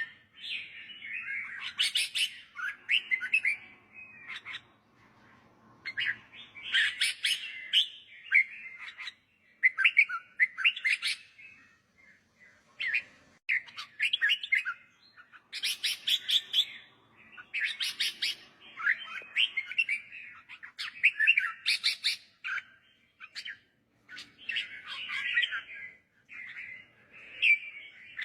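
Red-whiskered bulbul singing: short warbled phrases, each a second or two long, repeated with brief pauses between them.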